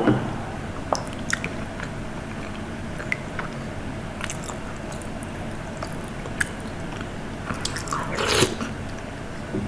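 Close-miked eating: a person chewing food, with scattered small wet clicks and one louder, longer mouth noise about eight seconds in.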